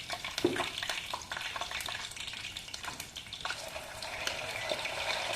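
Food sizzling and crackling as it fries in hot oil in a kadhai, stirred with a spatula that knocks and scrapes against the pan, one louder knock about half a second in.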